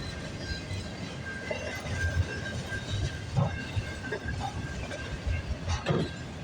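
Freight train cars rolling past, a steady low rumble with irregular clunks of the wheels over the rail joints and a sharper clunk about three and a half seconds in and again near the end.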